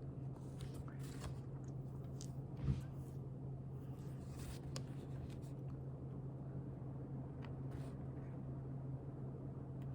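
Faint rustling and light taps of paper as a book is handled, over a steady low hum, with one soft thump a little under three seconds in.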